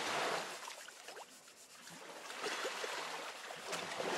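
Small lake waves lapping and sloshing, swelling in three surges: at the start, about halfway through and near the end.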